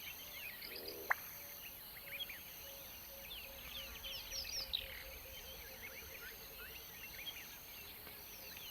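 Black-bellied bustard's display call about a second in: a brief low croak that ends in a single sharp pop, like a champagne cork. Small birds chirp all around, and insects buzz in steady repeated bursts.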